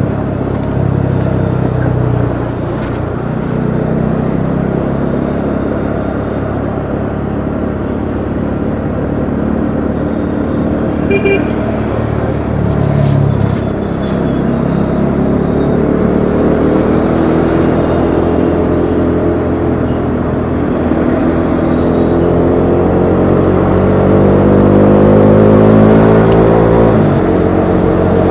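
Bajaj Dominar 400's single-cylinder engine running on the move, with wind and road noise. From about halfway it revs up steadily in pitch, then drops sharply near the end.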